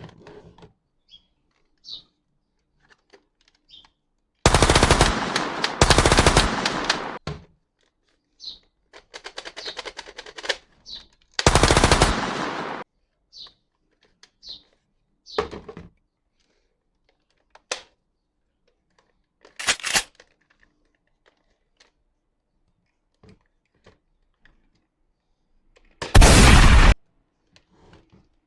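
Toy gun sounding bursts of rapid machine-gun fire. Two loud bursts come back to back about five seconds in, another around twelve seconds and a last one near the end. A lighter rattle and scattered short clicks fall between them.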